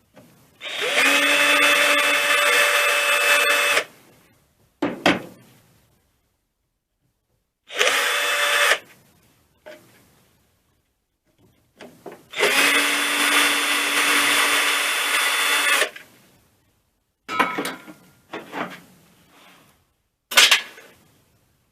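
Electric drill-driver spinning in three bursts, about three seconds, one second and three and a half seconds long, each with a steady whine that rises as it spins up: undoing bolts on an air compressor being dismantled. Short metallic clicks and knocks of parts being handled come between the bursts and near the end.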